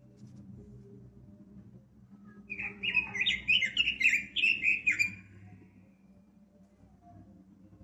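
Pekin robin (red-billed leiothrix) singing one fast, warbling phrase of quick rising and falling notes, lasting about two and a half seconds and starting about two and a half seconds in.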